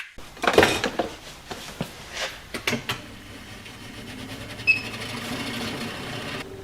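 Workshop handling sounds: a quick run of clinks and knocks from tools and metal parts, then a steady low hum for a few seconds.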